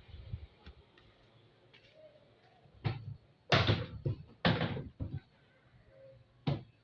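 Knocks and clattering from washing machine parts being handled during disassembly: a short knock, then two louder clatters about a second apart, and another knock near the end.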